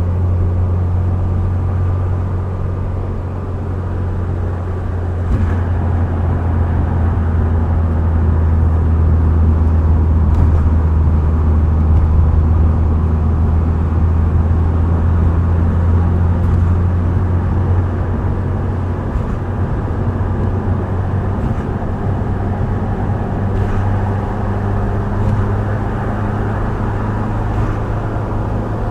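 Subaru WRX STI Spec C's turbocharged flat-four running under steady light load through an A-RM aftermarket exhaust, with road and tyre noise. A steady low drone dominates and eases off a little past the middle.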